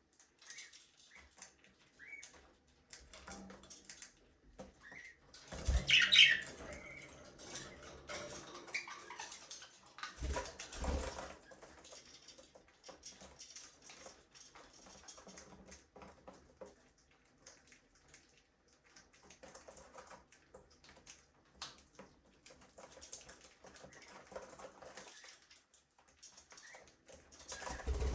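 Budgerigars chirping and twittering on and off, with wings flapping. The loudest burst of chirps comes about six seconds in, and a flurry of low thumps follows around ten seconds in.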